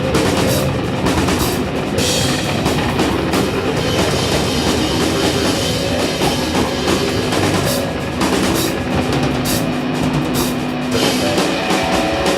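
Instrumental rock music: a band playing with drum kit and electric guitar, without singing.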